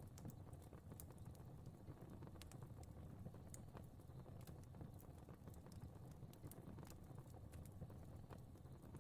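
Fire crackling faintly: scattered small sharp pops over a low steady rumble of flames.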